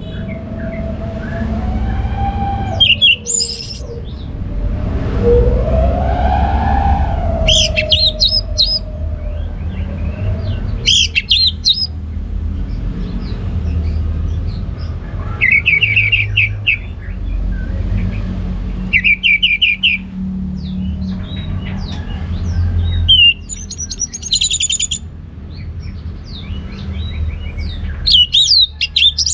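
Orange-headed thrush singing in short, whistled phrases a few seconds apart, about eight phrases in all, some of them quick chattering trills. A steady low rumble runs underneath, with a lower gliding tone rising and falling in the first few seconds.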